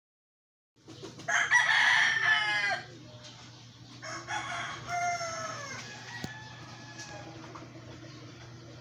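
A rooster crowing: one loud crow about a second in, then a quieter second crow around four seconds in, over a steady low hum, with a single sharp click near the middle.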